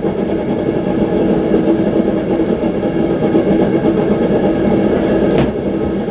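A forge running with a steady, even hum, with one brief click about five seconds in.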